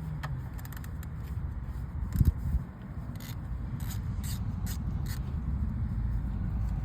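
Hand tools scraping and clicking against metal while working on the engine's VVT solenoid bolts, with one louder knock about two seconds in and a string of short scrapes a little later, over a steady low hum.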